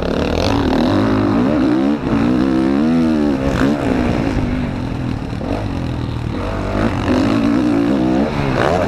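Dirt bike engine heard on board, revving up and down again and again as the throttle is opened and closed.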